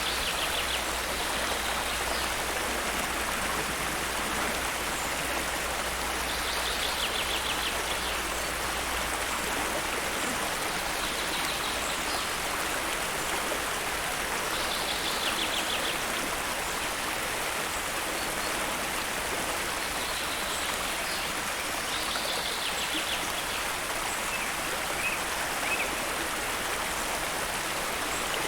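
Steady rush of falling water, an even hiss. A bird gives a short, rapid trill every few seconds.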